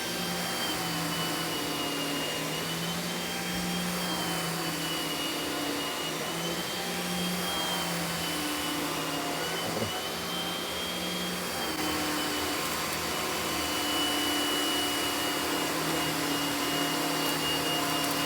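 Miele canister vacuum running with a Vacuflo TurboCat air-driven turbo brush head working over carpet. A steady drone with a high whine that wavers slightly in pitch.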